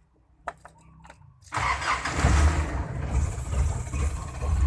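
Jeepney engine starting about a second and a half in after a few faint clicks, then running with a steady deep exhaust rumble through its new all-stainless muffler.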